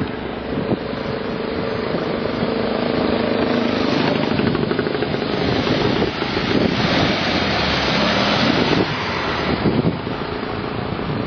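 Engine of a vehicle running nearby, a steady, rough mechanical sound with a pitch that shifts a little in the second half.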